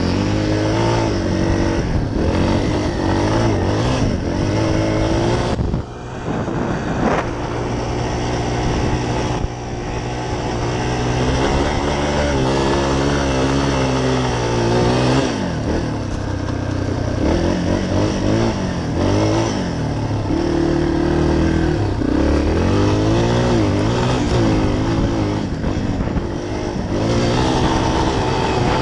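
Dirt bike engine revving up and down over and over as it is ridden hard in sand, its pitch climbing and falling with each burst of throttle and shift, with a short dip about six seconds in.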